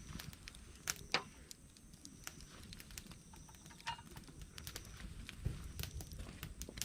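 Wood fire crackling: irregular sharp pops and snaps over a low, steady rumble, with two of the loudest pops about a second in.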